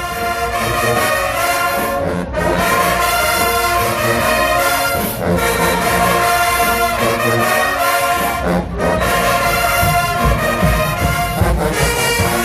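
HBCU marching band's brass section playing a loud tune in sustained chords, its phrases broken by short breaks about every three seconds.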